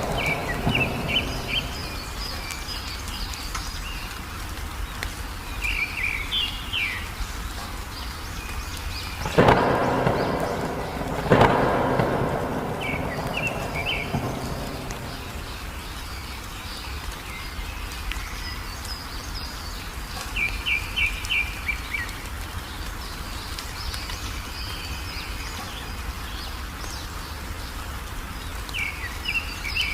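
Steady rain with short runs of rapid bird chirps repeated every few seconds, and two loud thunder cracks with a short rumble about ten and eleven and a half seconds in.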